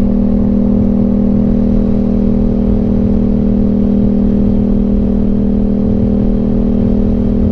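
Aprilia RS 660's parallel-twin engine running through an SC Project exhaust, holding one steady engine speed with no revving up or down, over a low uneven rumble.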